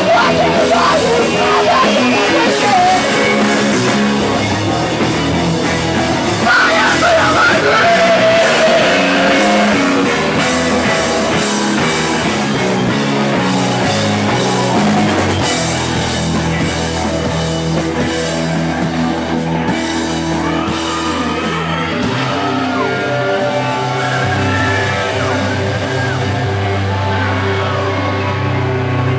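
Live rock band playing loud, with electric guitar and singing. About halfway through, the playing changes to long held bass and guitar notes with fewer drum hits.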